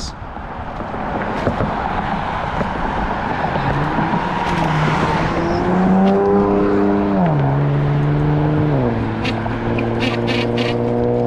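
Wind and road noise rushing over the microphone of a moving bicycle. Partway through a low droning hum joins in, holds its pitch, then drops in pitch twice in steps. A few light clicks come near the end.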